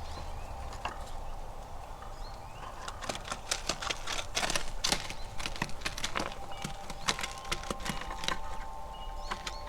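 Squirrels feeding at a platform feeder: irregular sharp clicks and taps of gnawing and scrabbling, busiest a few seconds in, with a few short bird chirps.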